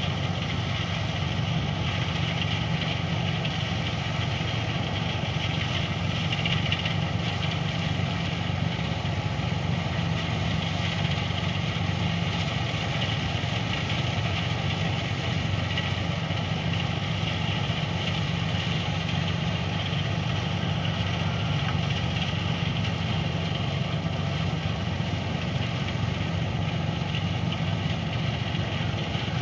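Rice threshing machine's engine running steadily at a constant speed, a test run after a service.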